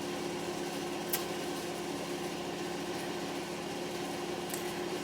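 Steady low mechanical hum, with a faint click about a second in.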